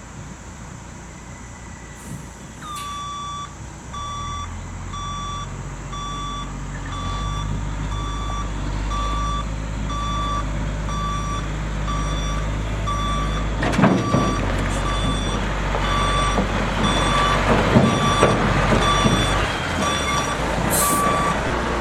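Reversing beeper on an International S1900 rollback truck, beeping about once a second while the truck backs up, over the steady running of its DT-466 diesel, which grows louder as it takes up load. A few short knocks and clunks come about two-thirds of the way through.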